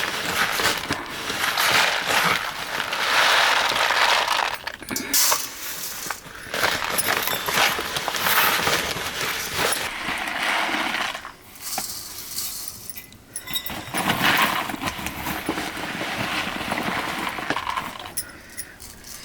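Metal dishes and utensils clinking and scraping during a meal, in noisy stretches of a few seconds with short pauses between.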